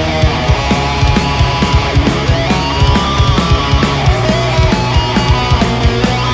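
Heavy rock music: distorted electric guitars, bass and drums hitting a steady beat, with a bending melodic line over the top.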